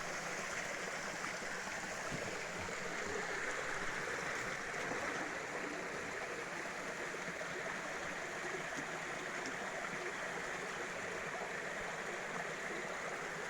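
A river stream running steadily, a constant rush of flowing water.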